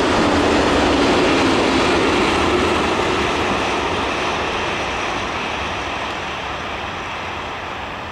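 Empty ore hopper wagons rolling along the rails, a steady rumble of wheels on track that fades steadily from about two and a half seconds in as the end of the train draws away.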